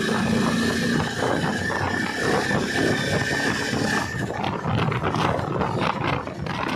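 Yezdi Adventure motorcycle on the move: engine and rushing road-and-wind noise, with a steady high whine for about the first four seconds that then drops away.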